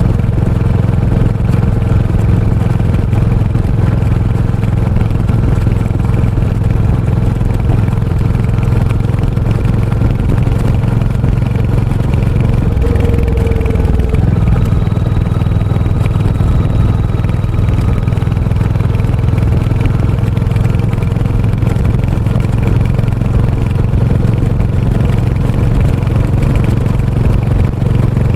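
Royal Enfield Hunter 350's single-cylinder engine and exhaust running steadily under way, the engine note shifting about halfway through.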